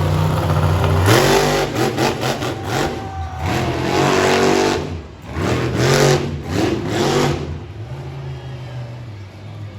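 Monster truck's Ford engine idling, then revved hard in a run of quick blips about a second in and three more long revs, each rising and falling in pitch, before it settles back to idle near the end.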